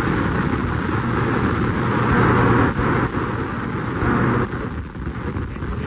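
A machine running steadily, a low hum under a broad hiss, dropping somewhat in level about four and a half seconds in.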